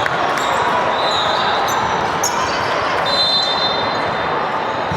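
Busy indoor sports-hall din: a steady hum of crowd chatter with volleyballs bouncing on the hard court floor and a few brief high squeaks.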